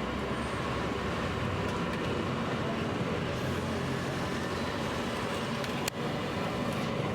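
Steady roadside traffic noise: a continuous wash of passing vehicles, with a short click about six seconds in.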